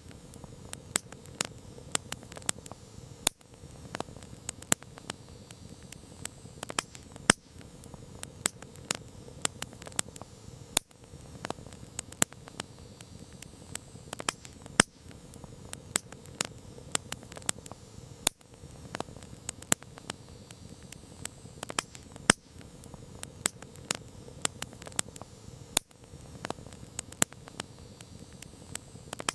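Campfire crackling: irregular sharp pops and snaps of burning wood, several a second with the odd louder crack, over a soft steady hiss of the flames.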